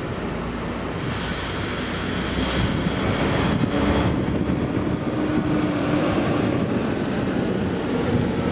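A large bus passing close by, its engine and tyre noise growing louder about a second in and holding there.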